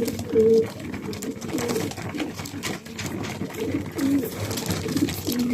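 Several racing pigeons cooing together in the loft, overlapping low coos one after another with scattered light clicks and scuffles.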